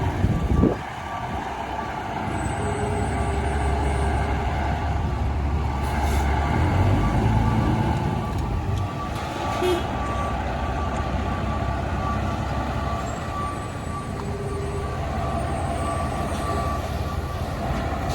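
Fire truck's diesel engine running low and steady as it reverses, with a reversing alarm sounding.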